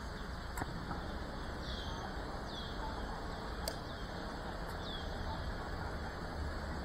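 A bird repeats a short, falling call about once a second over a steady background hum, with a few faint clicks.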